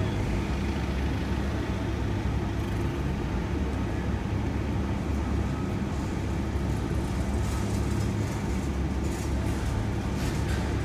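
Steady low rumble of road and engine noise heard from inside a moving shuttle van's cabin.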